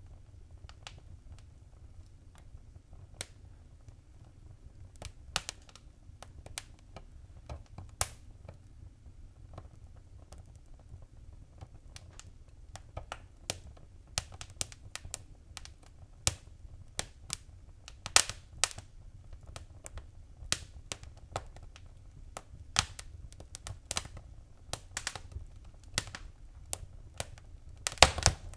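Wood fire in a fireplace crackling: irregular sharp pops and snaps over a low steady rumble of the flames. The pops are sparse at first, come more often from about twelve seconds in, and bunch into a cluster of loud snaps near the end.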